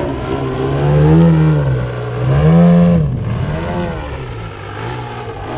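RC model aircraft engine revving, its pitch rising and falling twice, then running lower with a slight waver.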